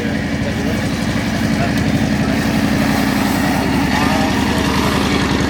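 Engine idling steadily with a fast, even firing beat, with voices faintly in the background.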